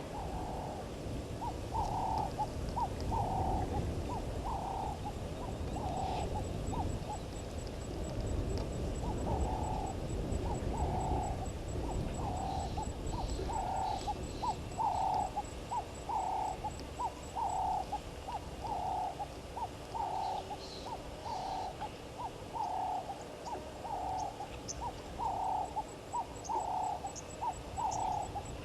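A bird repeating a hooting call about once a second, each call a short note followed by a longer one, over a low outdoor rumble.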